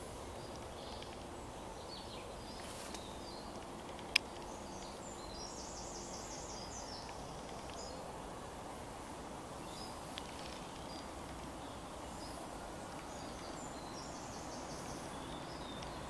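Woodland ambience: a steady low background noise with small birds calling faintly, high chirps and two quick high trills, one a few seconds in and one near the end. A single sharp click about four seconds in.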